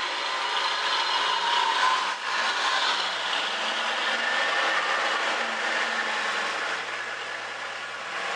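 1964 Ford F100 pickup running and being driven slowly, a steady noisy engine-and-vehicle sound with rattles.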